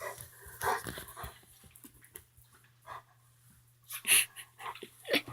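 Small dog making a few short, scattered yips and whimpers, the loudest about four seconds in.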